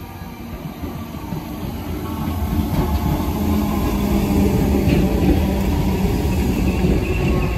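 Merseyrail Class 507 third-rail electric multiple unit running into the platform, its rumble and motor hum growing louder over the first few seconds as the train comes alongside, then holding steady as the carriages pass close by.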